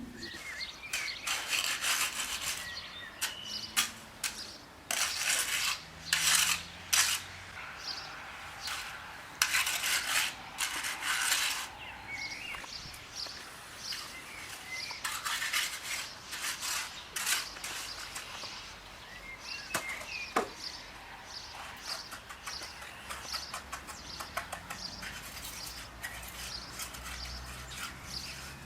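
Hard objects clattering and scraping in irregular bursts, loudest in the first half, with a few faint bird chirps.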